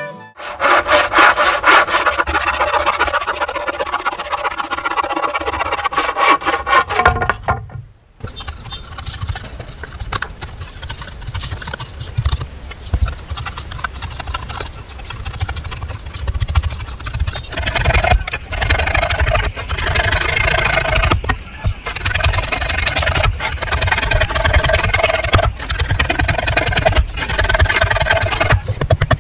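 Wood being cut with a hand saw in quick, even back-and-forth strokes, with a couple of short pauses between runs.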